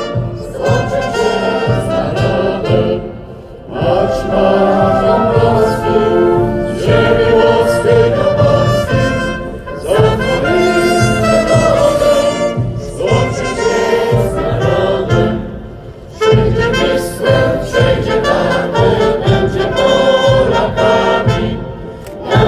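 A brass band playing while many voices sing together, in phrases with brief pauses between them.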